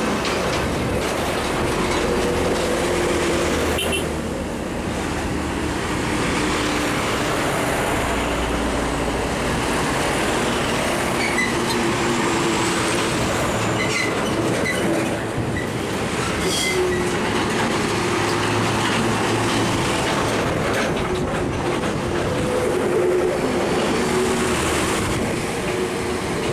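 Heavy truck traffic crawling in a jam: a steady wash of diesel engines and tyres, with a few brief high squeals around the middle.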